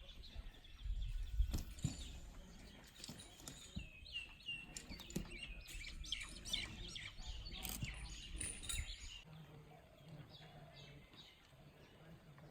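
Several birds chirping and calling, thickest in the middle of the stretch, over a low rumble that drops away after about nine seconds.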